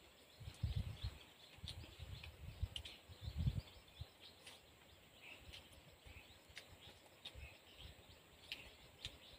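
Quiet outdoor ambience with faint, scattered short bird chirps. A few low muffled thumps and rumbles come in the first few seconds, then die away.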